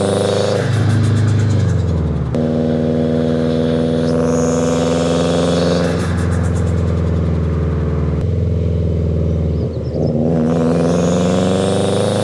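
Subaru WRX's turbocharged flat-four engine and exhaust under acceleration. The pitch climbs through long pulls and drops a few times in between.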